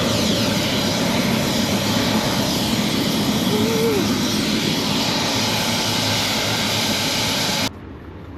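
Helicopter in flight: loud, steady engine and rotor noise that cuts off suddenly near the end.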